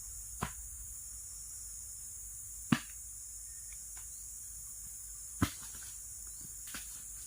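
Steady high-pitched drone of forest insects, with four sharp knocks, two of them much louder, about three and five and a half seconds in.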